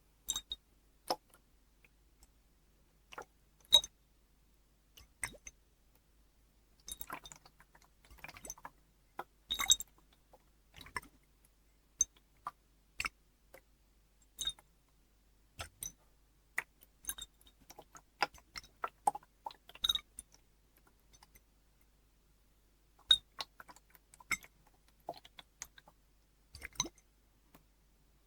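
Water in a glass bottle: irregular light glassy clinks and taps, some with a brief bright ring, a few close together and others a second or more apart.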